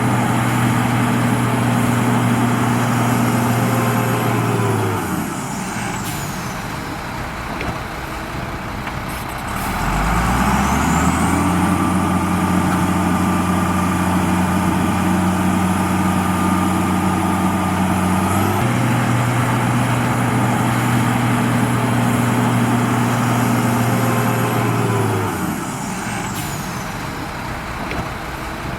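Heavy diesel engine of an earthmoving machine working through cycles. It runs at steady high revs, drops back to a low idle about five seconds in, and revs up again about ten seconds in, with a step in pitch partway through. It drops back once more near the end. A faint high whine rises and falls with the revs.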